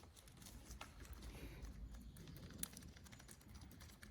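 Faint, scattered small clicks of a loosened lever-clamp screw being turned out by hand on a motorcycle handlebar, over a low hum.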